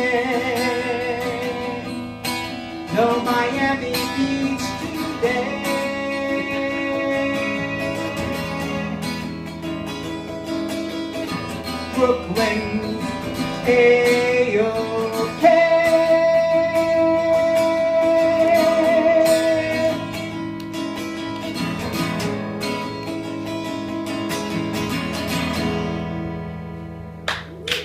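Strummed acoustic guitar with a male voice singing long, drawn-out notes with vibrato, the closing of a folk song. The music fades near the end and clapping starts.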